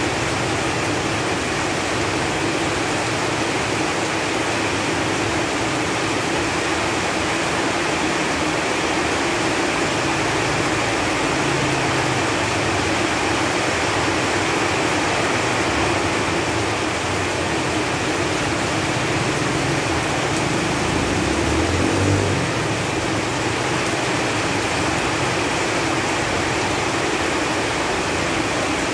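Steady rain falling on leaves, an even, unbroken hiss. A brief low rumble comes in about three-quarters of the way through.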